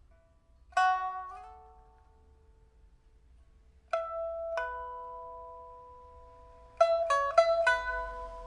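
Solo pipa, a 1983 Shen Huanchun old-rosewood instrument with a newly replaced soundboard and frets, being played after repair. Single plucked notes ring out and fade slowly. One note about a second in slides up in pitch, and a quick run of several notes comes near the end.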